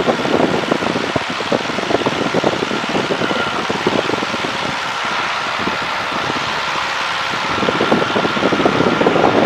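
de Havilland Tiger Moth's Gipsy Major four-cylinder engine and propeller running steadily in flight, heard from the open cockpit with a constant rush of slipstream.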